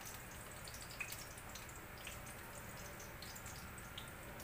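Hot dogs frying in oil in a pan: a faint steady sizzle with scattered small pops and spatters, the sharpest about a second in.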